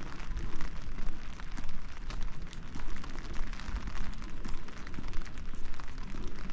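Steady rain, with many close raindrops ticking and crackling over a low rumble.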